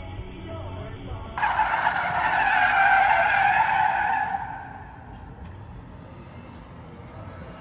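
Car tyres squealing in a skid for about three seconds, starting suddenly about a second and a half in and fading out about four and a half seconds in.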